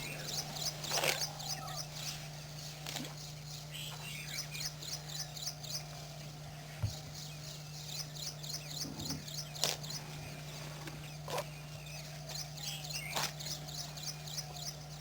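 Birds calling outdoors: short series of rapid, high chirps, each series about a second long, repeated many times, over a steady low hum, with a few sharp clicks scattered through.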